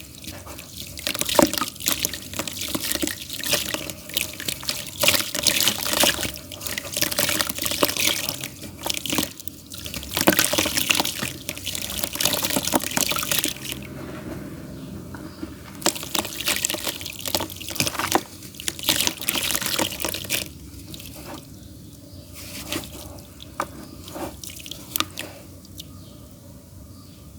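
Damp clay crumbling by hand: a dense run of crackling and crumbling, quieter for a couple of seconds about halfway and much quieter over the last seven seconds.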